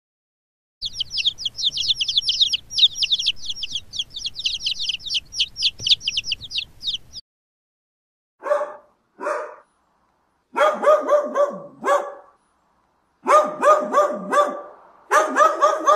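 A chick peeping rapidly and high, about five peeps a second, for about six seconds. Then a dog barking: two single barks, followed by three quick runs of barks.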